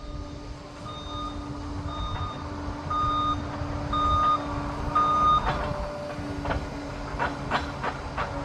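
Liebherr PR 746 crawler dozer's reversing alarm beeping about once a second over its running diesel engine, so the dozer is backing up. The beeping stops about five and a half seconds in, and several sharp knocks follow.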